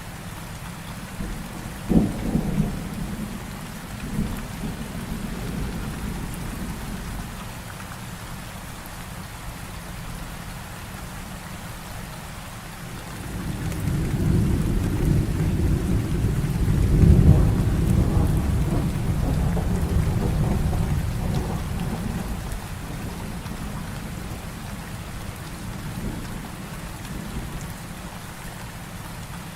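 Heavy rain falling steadily in a thunderstorm, with a sharp crack of thunder about two seconds in and a long, low rolling rumble of thunder that builds about halfway through, peaks, and dies away over several seconds.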